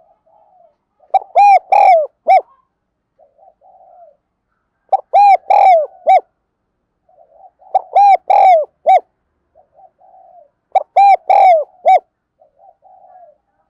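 Spotted dove cooing: four repeated phrases about three and a half seconds apart, each a run of loud, arched coos, with softer burbling notes in the gaps between phrases.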